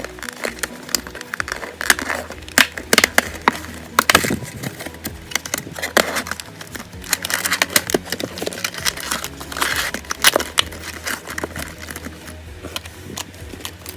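Plastic wrapping and packaging of a trading card booster box crinkling and tearing in quick, irregular crackles as it is opened by hand.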